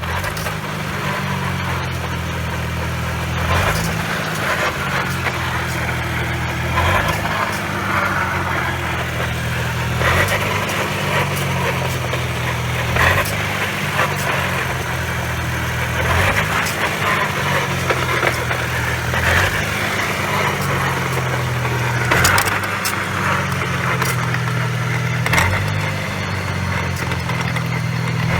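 Nissan Skyline GT-R (BNR32) on the move, its RB26DETT straight-six running with the engine pitch stepping up and down several times, over rough road and drivetrain noise. The car has a rumbling (gorogoro) noise from the drivetrain at 50–60 km/h, which the mechanic suspects could come from the transmission, transfer case, propeller shaft centre bearing or differential, with large backlash.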